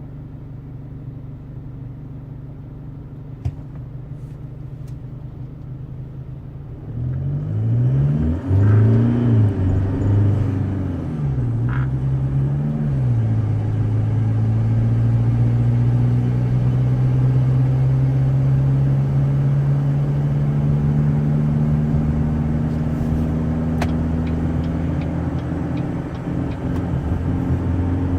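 2016 Chevrolet Colorado's 2.8 L Duramax four-cylinder turbodiesel with an S&B cold air intake, heard from inside the cab: a steady low idle, then about seven seconds in it pulls away under throttle, its pitch rising and dropping several times as the automatic shifts up. After that the engine note climbs slowly and steadily.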